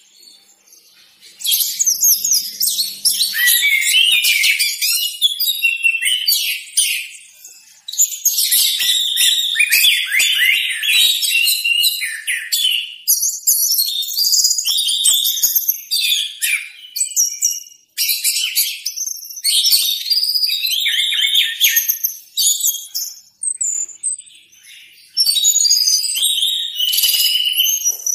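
Orange-headed thrush (anis merah) singing: long runs of fast, varied whistled and chattering phrases, broken by short pauses every few seconds.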